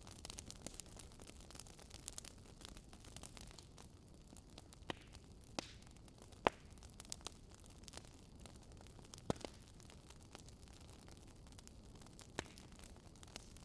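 Wood campfire crackling: a soft steady hiss with sharp pops at irregular intervals, the loudest snap about halfway through.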